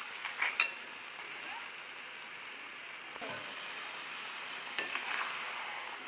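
Crab masala sizzling in a pan while a steel ladle stirs it, with a steady sizzling hiss. The ladle clicks and scrapes against the pan a few times, near the start and again about five seconds in.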